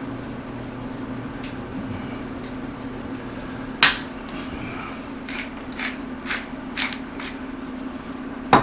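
Several short clicks and knocks of kitchen utensils and cookware over a steady low hum. The loudest comes about four seconds in, a few lighter ones follow, and another comes just before the end.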